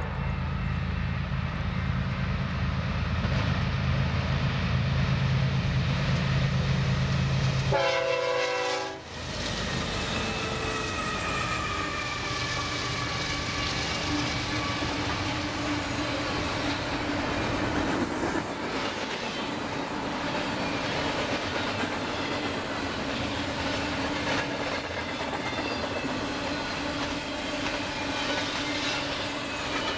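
A BNSF double-stack container train led by GE ES44DC locomotives sounds its horn for the first several seconds as it approaches. The locomotives then pass with a rumbling engine sound, faint tones falling in pitch. After that the stack cars roll by with steady wheel clickety-clack and rail noise.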